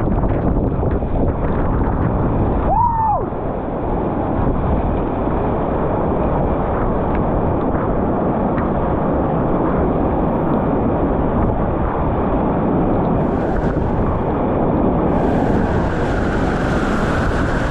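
Steady roar of fast whitewater, with wind buffeting the microphone. About three seconds in, a brief tone rises and falls.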